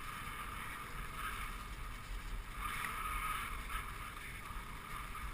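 Dog sled gliding along a snow trail: a steady hiss of the runners over the snow that swells twice, with low wind rumble on the microphone.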